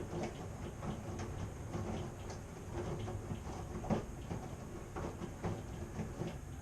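Washing machine running, a steady low hum with irregular knocks and clunks as the drum turns the load, one sharper knock about four seconds in.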